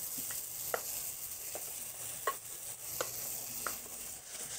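Shredded king trumpet mushrooms sizzling in hot olive oil in a frying pan as more are scraped in from a glass bowl with a wooden spoon, with a few light clicks along the way.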